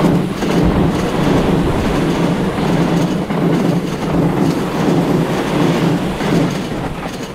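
JR East 255 series limited express electric train passing close by at speed: a steady rumble of wheels on rail with a clickety-clack over the rail joints, easing off near the end as the last car goes by.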